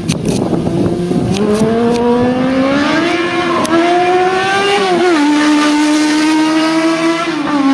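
Yamaha R1 inline-four motorcycle engine in a Zaporozhets car revving high under acceleration. Its pitch climbs steadily for about four seconds, drops sharply about five seconds in, then holds steady at a high pitch and dips slightly near the end.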